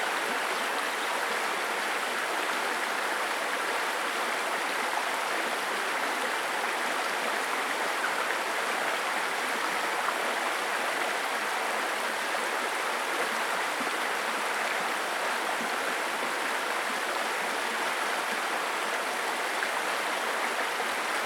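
Shallow babbling brook, water running over stones in a steady, unbroken rush and burble.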